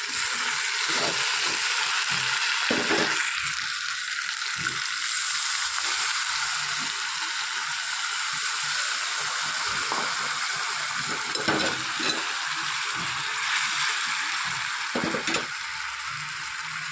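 Chicken curry sizzling steadily in hot oil in a two-handled karahi, with a ladle stirring and knocking in the pan a few times.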